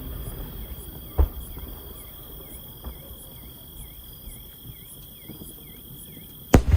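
Insects chirping in a steady run of short repeated chirps, about two a second, during a lull between fireworks. A single firework bang about a second in, and a much louder firework burst near the end.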